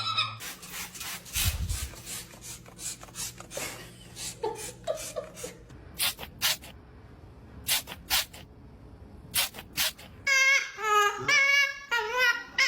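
Scattered sharp clicks and taps for about ten seconds. Then, near the end, a parrot vocalising in a wavering, cry- or laugh-like voice.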